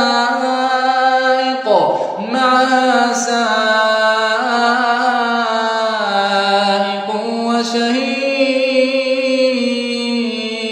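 A man's voice reciting the Quran in a melodic, drawn-out tajweed style, holding long notes with slow bends in pitch. There is a short break about two seconds in.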